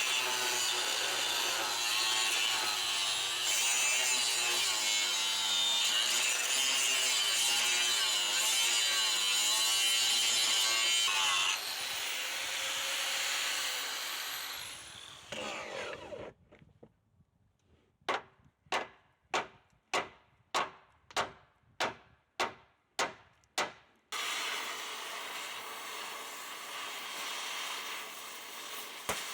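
Electric angle grinder grinding steel, its pitch wavering under load for about eleven seconds, then released and winding down. After a short quiet, about a dozen sharp taps come at an even pace of nearly two a second, and then a steady noise starts and runs on.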